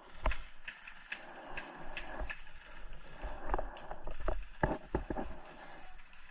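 Footsteps on hard ground with irregular sharp knocks and clatter, about a dozen hits spread unevenly, the loudest cluster a little past the middle.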